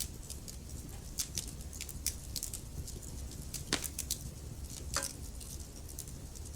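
Burning logs crackling: irregular sharp pops and snaps over a steady low rumble of the fire, with two louder pops about halfway and three-quarters of the way through.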